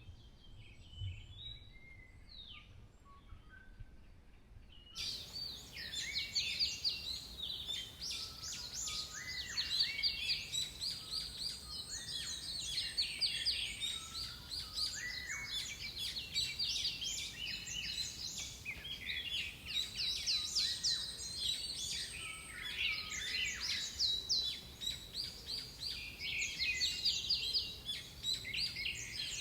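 Several songbirds singing and calling at once in woodland, a dense mix of quick chirps and song phrases. For the first few seconds only faint, scattered calls are heard; about five seconds in the chorus comes in suddenly and fills the rest.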